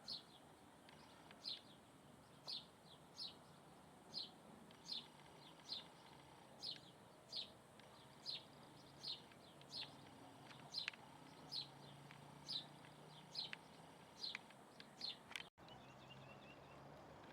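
A bird calling over and over: short, high, downward-sliding chips, a little more than one a second, steady in pace. The calls stop at a sudden cut about fifteen seconds in, leaving only faint hiss.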